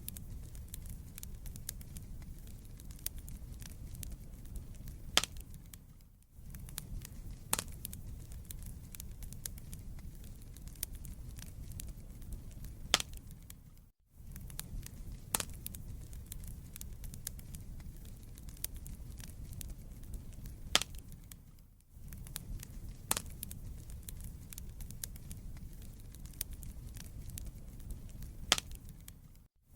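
Wood fire burning in a fireplace, with a steady low rumble of flames and frequent sharp crackles and occasional louder pops of the burning logs. The sound briefly drops out about every eight seconds.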